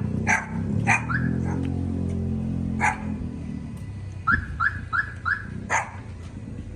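Dog barking with sharp single barks, then a run of four quick yips about four seconds in. A steady low hum runs under the first three seconds.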